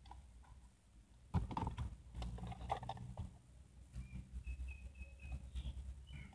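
Clicks and knocks of a plastic toy being handled, with a run of about five short, faint electronic beeps around two thirds of the way through.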